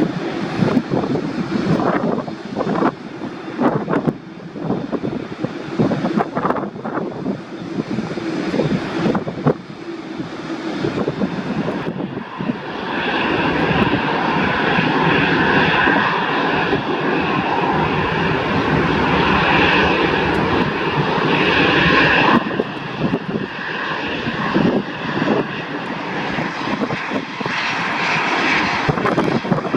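Airliner engines running, a rumble with a rough, gusty crackle. About twelve seconds in, a stronger high whine joins and grows louder, then drops away about ten seconds later.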